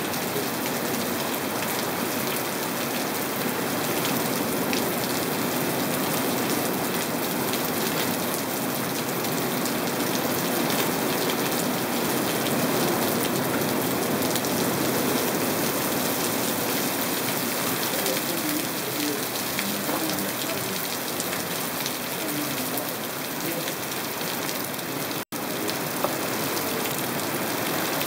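Steady rain falling on grass, leaves and wet ground: an even hiss with no break in intensity. The sound cuts out for an instant near the end.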